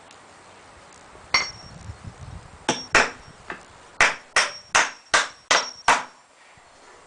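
Hammer driving nails into pallet wood: a few spaced blows, then a quick even run of six strikes, about two and a half a second, each with a short metallic ring.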